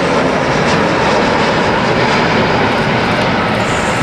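An Airbus A321 airliner on approach to land, its jet engines making a loud, steady rushing noise.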